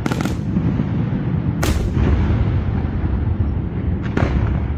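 Aerial firework shells bursting: three sharp bangs, at the start, about a second and a half later and near the end, over a continuous low rumble of further bursts.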